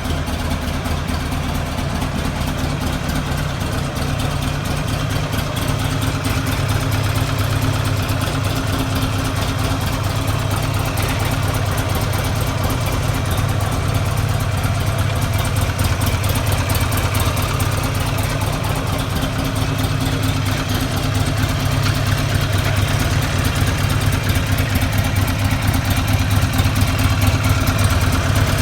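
Buell XB12SS's 1203 cc air-cooled V-twin idling steadily through its exhaust, growing slightly louder toward the end.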